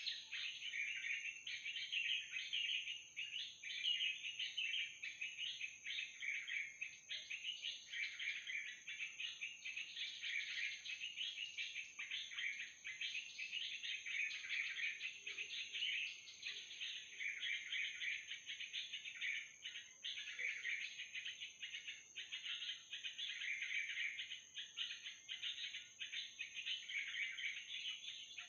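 Yellow-vented bulbul (trucukan) calls played from an MP3 lure recording: continuous, busy chattering without a break, used to draw wild bulbuls down into the net.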